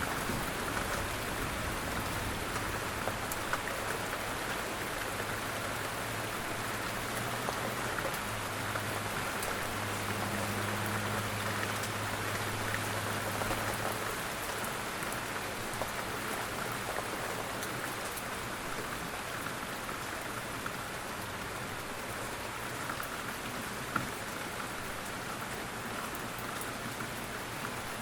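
Steady rain falling on surfaces, an even hiss with scattered small drop ticks throughout.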